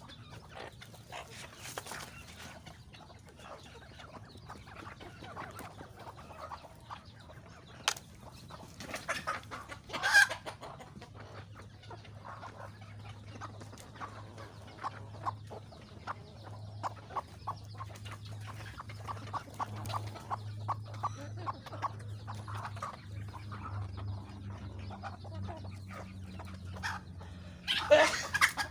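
Chickens clucking, with scattered short clicks and louder calls about ten seconds in and again near the end.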